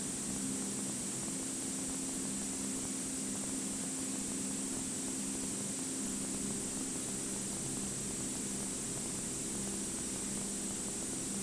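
Steady hiss and low hum on a light aircraft's cockpit intercom audio during the takeoff roll and climb of a Cirrus, the engine at takeoff power coming through only as a muffled, even drone.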